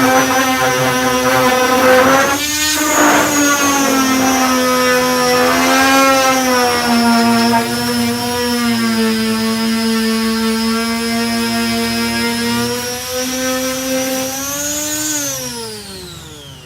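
Power sander with a 240-grit disc running on body filler, its motor hum wavering and dipping in pitch as it is worked. Near the end the pitch rises briefly, then winds down as it is switched off.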